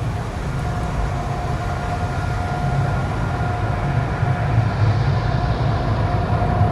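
Automatic car wash machinery running steadily, heard from inside the vehicle's cabin: a low rumble with a constant hum over it.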